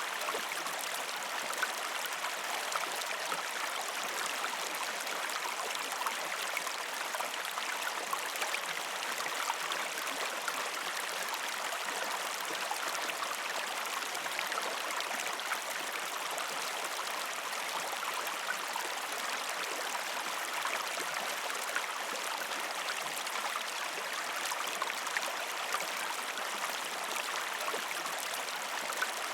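A small river or stream flowing over rocks: a steady, even rush of water with fine splashing and babbling.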